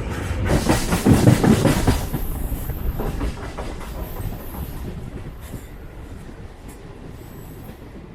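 Train wheels clattering rhythmically over rail joints, loudest for about the first two seconds, then dying away into a quieter, steady running rumble.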